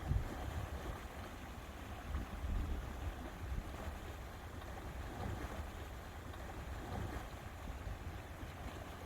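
Lake water lapping, with gusts of wind rumbling on the microphone.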